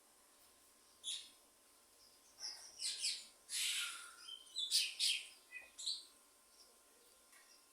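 Birds singing and calling: a sharp call about a second in, then a run of high chirps and calls between about two and a half and six seconds in, before they fall quiet.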